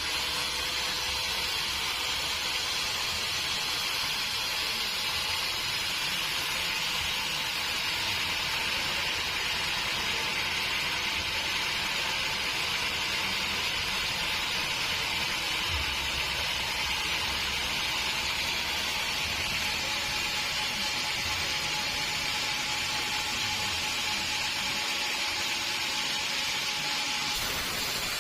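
Sawmill saw cutting through a log, a steady high hissing noise with a few faint low knocks.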